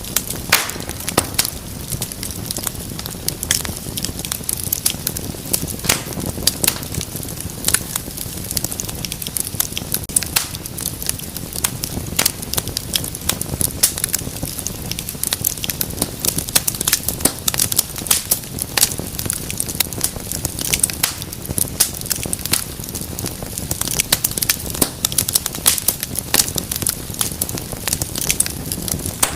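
Fireplace fire crackling: frequent sharp pops and snaps of varying strength over a steady low rush of flame.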